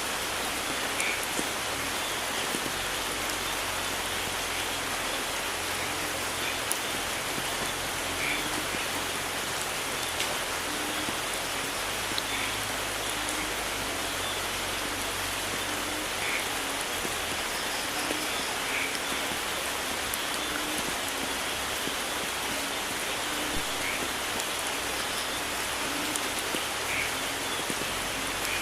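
Steady, dense rain falling in a rainforest, an even hiss of drops with a few distinct louder drops here and there.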